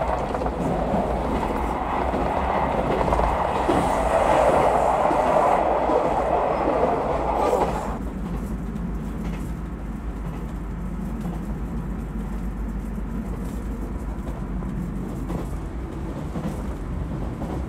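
Running noise of a Super Hakuto HOT7000-series diesel train heard inside the passenger car at speed: a steady low rumble with wheel clatter on the rails. About eight seconds in, the brighter, louder part of the noise cuts off abruptly, leaving a quieter, duller rumble.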